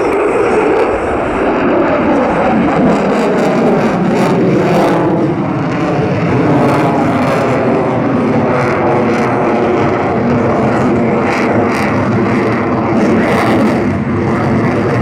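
F-22 Raptor's twin Pratt & Whitney F119 turbofan engines running loud in flight, a steady jet roar with a faint, slowly shifting pitch.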